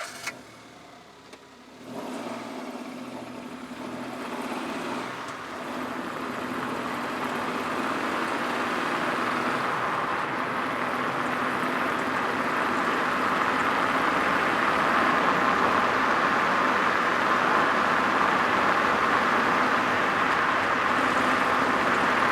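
Citroën Saxo car engine starting about two seconds in, then running steadily and growing gradually louder.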